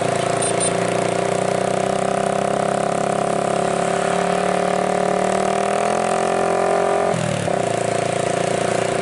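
Diesel engine of a heavily loaded Nissan truck pulling uphill, its revs rising slowly, with a brief break in the engine note about seven seconds in before it runs steady again.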